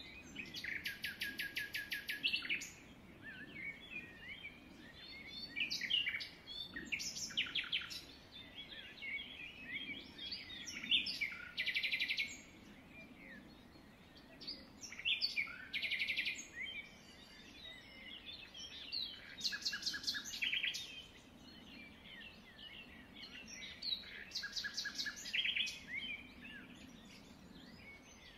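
Birds chirping, with bursts of rapid trills every few seconds over a faint low hum.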